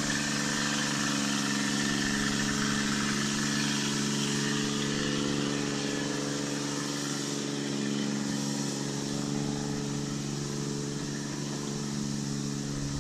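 Steady mechanical hum from a running motor, one constant pitch with no change, over a wide hiss.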